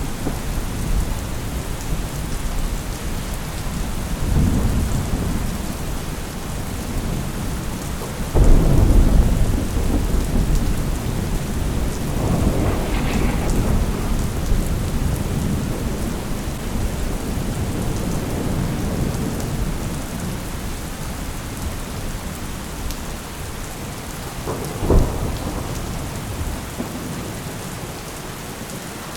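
Thunderstorm: rain falling steadily with rolling thunder rumbling underneath. A loud thunderclap about eight seconds in rumbles on for several seconds, and a sharper, shorter crack comes near the end.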